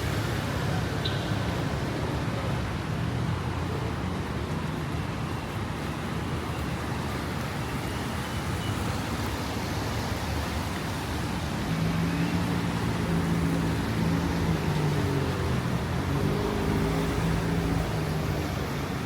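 City street traffic: a steady hum of passing cars, with a vehicle's engine drone standing out over it for several seconds in the second half.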